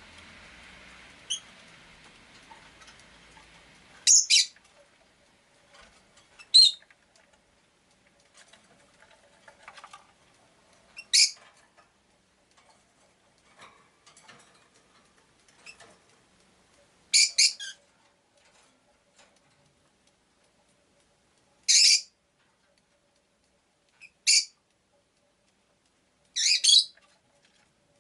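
Rosy-faced lovebird giving short, shrill chirps, about seven calls spaced a few seconds apart, some in quick doubles or triples. A faint background hiss of street noise fades out over the first few seconds.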